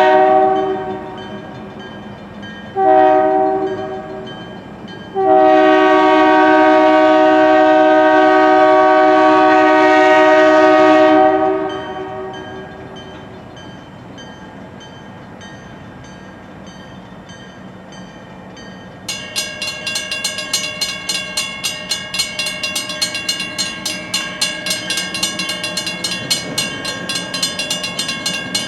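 Diesel locomotive air horn sounding a chord: a blast fading out just after the start, a short toot about three seconds in, then a long blast of about six seconds. After a quieter stretch, a fast rhythmic clatter starts about two-thirds of the way through and keeps going.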